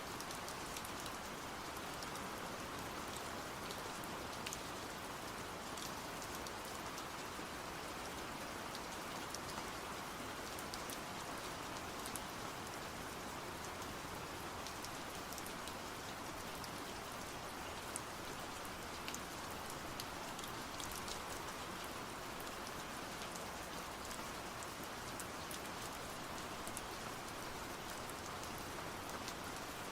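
Steady heavy rain falling on a surface, an even hiss with scattered sharp drop ticks throughout.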